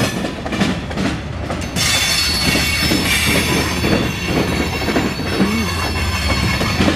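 Freight cars of a CSX mixed freight train rolling by, with a steady low rumble and repeated clacks of wheels over rail joints. About two seconds in, a steady high-pitched wheel squeal starts and holds as the train takes the curve from southbound to westbound.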